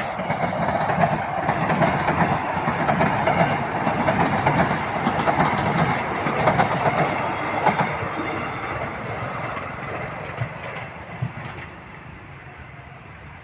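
Soekarno-Hatta airport rail link electric train passing close by, the steady rumble of its wheels on the rails with many fine rapid clicks, dying away over the last few seconds as it moves off.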